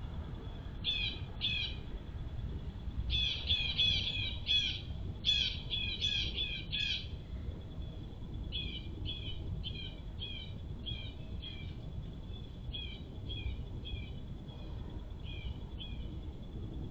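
A songbird chirping: quick runs of short, down-slurred high notes for the first several seconds, then fainter chirps in twos and threes.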